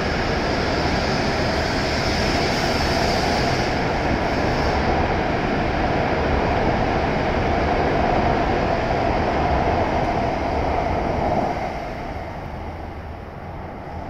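E7 series Shinkansen train pulling out of the station and accelerating past the platform, a steady loud rush of the cars going by. The noise falls away about eleven seconds in as the last car clears the platform.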